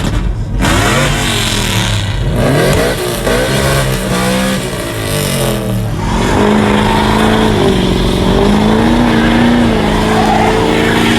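Truck engine revving: the pitch climbs and drops several times, then is held high with small steps up and down for the last few seconds.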